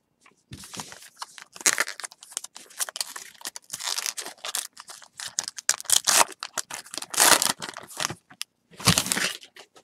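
Baseball card pack being torn open and its wrapper crinkled, with cards handled and slid against each other: a run of irregular, scratchy rustles and short tears.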